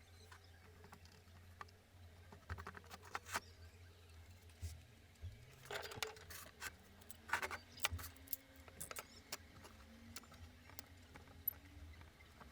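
Irregular light clicks, taps and short scrapes of small objects being handled, over a faint low hum.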